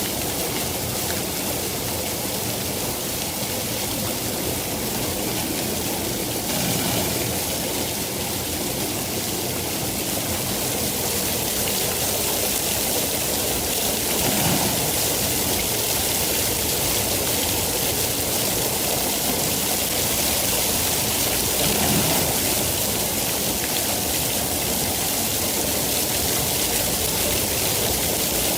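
Steady rain, a dense continuous hiss of drops, with a slight low swell about every seven or eight seconds.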